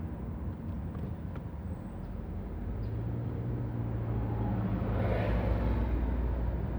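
Street traffic noise with a vehicle's engine hum swelling to a peak about five seconds in, then easing, over a steady low rumble of wind and road noise.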